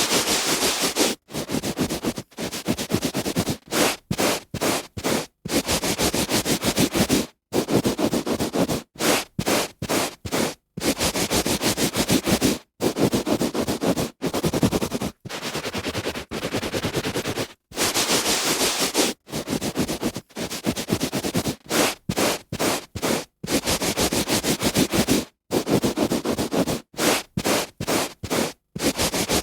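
A hand rubbing back and forth on carpet, a dense scratchy rustle in strokes of varying length separated by brief silent gaps.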